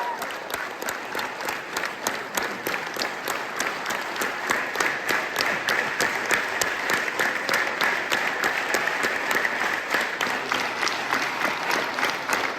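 Symphony concert audience applauding: dense, steady clapping from many hands.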